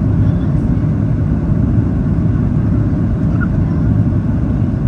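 Steady low rumble of airflow and CFM56 engines heard inside the cabin of a Boeing 737-800 on final approach.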